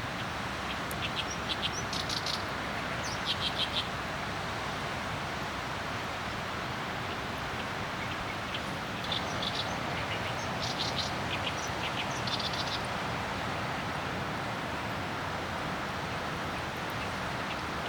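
Small birds chirping in short runs of quick, high notes, a few near the start and a longer series around the middle, over a steady background hiss.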